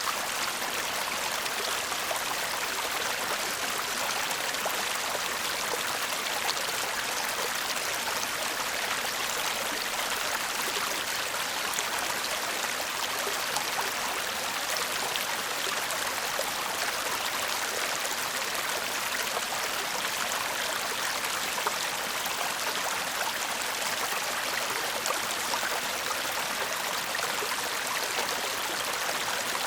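A shallow stream babbling and murmuring steadily over stones, an even rush of water with fine splashing.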